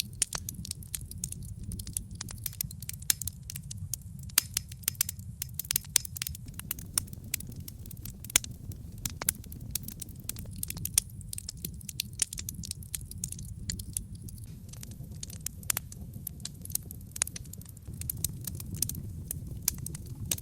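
Wood fire burning in a fireplace: logs crackling with frequent irregular sharp pops and snaps over a steady low rumble of the flames.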